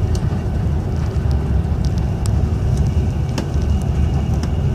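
Inside a passenger train moving at speed: a steady, loud low rumble of the running train, with a few sharp clicks scattered through it.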